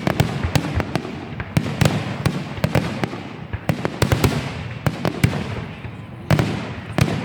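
Fireworks going off in quick succession: a dense run of sharp bangs and crackling pops, with big bursts among many small ones.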